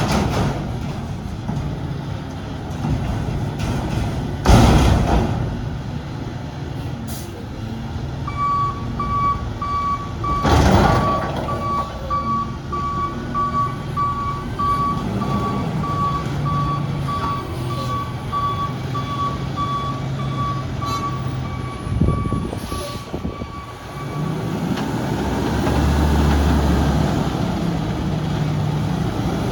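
Front-loader garbage truck's diesel engine running, with its backup alarm beeping about twice a second for a long stretch in the middle. Two short bursts of air hiss come before and at the start of the beeping, and the engine revs up near the end.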